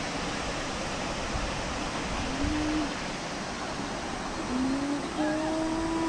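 Stream water rushing steadily, with brief snatches of a voice about two seconds in and again near the end.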